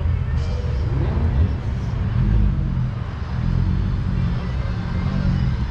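A car engine running, a steady low rumble.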